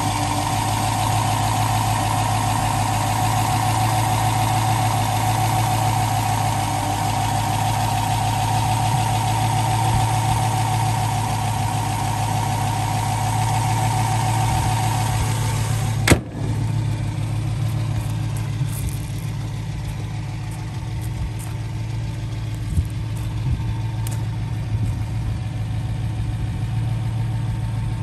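Daimler V8 250's 2.5-litre V8 engine idling steadily. A higher steady whine over the engine note ends with a sharp click a little past halfway, and the idle carries on.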